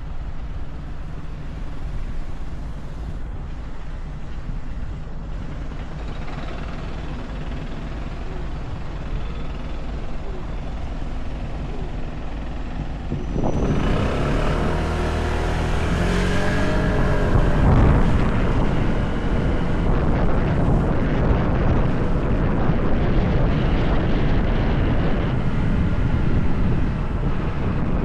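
Motorcycle engine running on the road with wind noise on the microphone. About halfway through, the engine gets louder and its note rises as the bike speeds up, then it stays louder.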